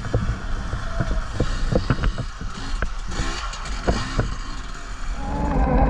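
Irregular knocks and rattles over a low rumble and wind rush while riding a rough, muddy trail; near the end a dirt bike engine comes in, running louder and revving.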